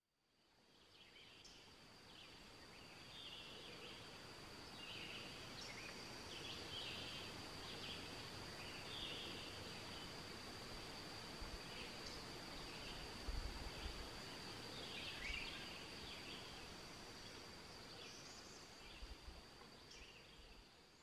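Faint riverside woodland ambience: scattered short bird chirps over a steady high-pitched whine, with a few soft low thumps.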